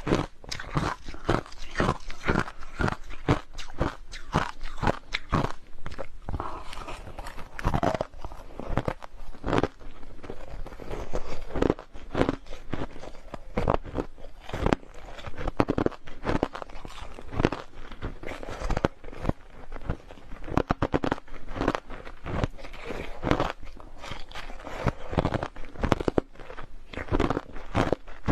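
Hard, clear crushed ice being bitten and chewed close to the microphone: a steady run of irregular sharp crunches and cracks.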